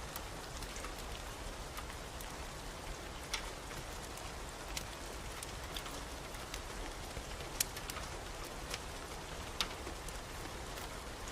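Steady rain falling, with a fireplace fire crackling: a sharp pop about once a second over the even hiss of the rain.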